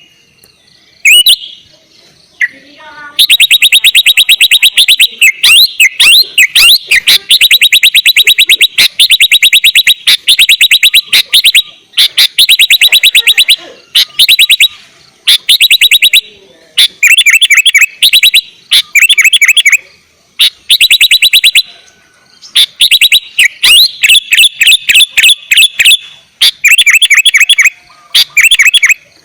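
Sooty-headed bulbul (kutilang) singing loudly: a few short calls, then fast rattling trills of rapidly repeated notes in stretches of one to three seconds, with short pauses between them.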